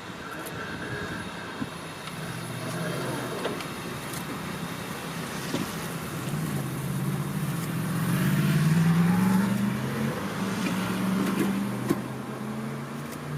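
A passing vehicle: a low pitched hum that builds to its loudest about two thirds of the way in, then eases off.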